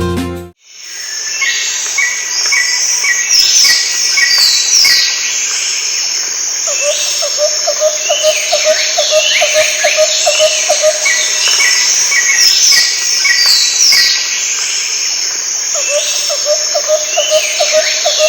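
Wild birds calling and whistling in a forest, their short chirps repeating again and again. A lower, fast-pulsing chirp from an insect or frog joins in two stretches, about a third of the way in and again near the end.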